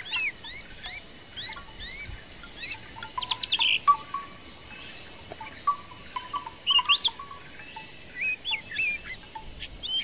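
Songbirds singing and chirping in short rising whistled notes, repeated in quick runs, with a brief trill about a third of the way in, over a steady high-pitched drone.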